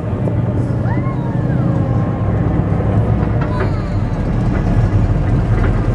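Monster truck engine running with a steady low rumble, with a few short rising-and-falling calls over it about a second in and again near the end.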